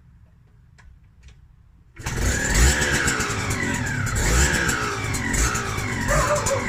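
Yamaha DT125R's single-cylinder two-stroke engine, freshly rebuilt, suddenly running loud about two seconds in and being revved up and down repeatedly through its exhaust. Before that there are only a few faint ticks.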